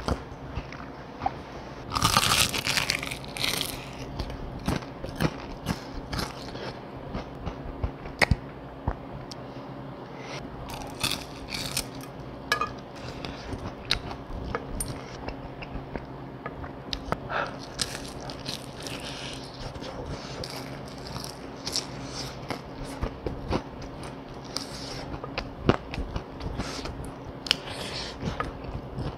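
Close-up chewing and crunching of fried chicken: many short, irregular crisp bites and chews, with a louder dense patch of noise about two seconds in.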